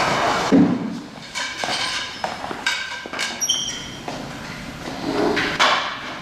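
Knocks and clatter of wooden layout modules and their legs being lifted and set in place, with a heavy thump about half a second in.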